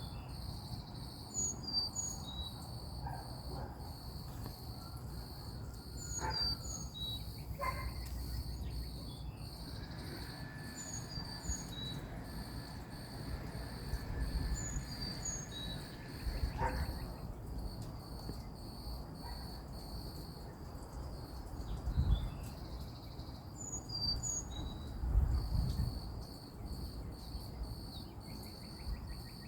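Insects trilling steadily, with a bird giving short high two-note chirps every few seconds over a low rumble of wind or handling noise, which has a couple of louder bumps near the end.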